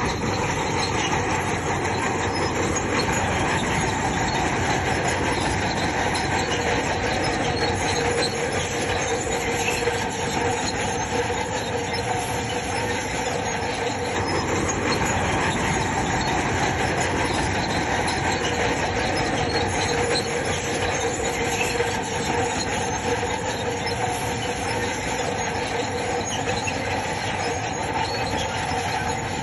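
Crawler bulldozer working: its engine running under load while the steel tracks give off a steady metallic squeal and clatter.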